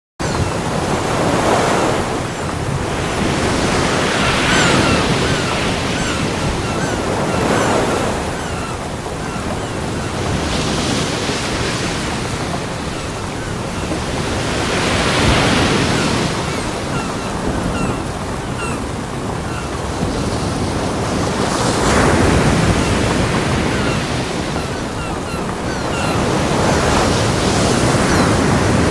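Ocean surf breaking on a beach: a continuous wash of water noise that swells and eases as waves come in every few seconds.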